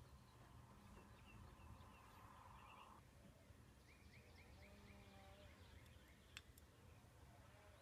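Near silence: faint room tone with a faint steady tone that stops about three seconds in, and a few faint short chirping trills near the middle.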